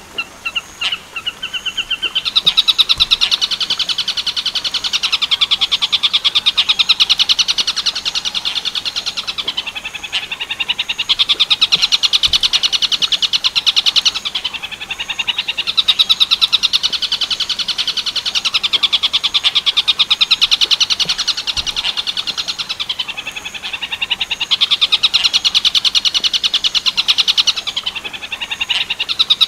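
Tengkek buto bird giving its 'werkudoro' call: long, very fast rattling trills, loud and high-pitched, repeated phrase after phrase with short breaks.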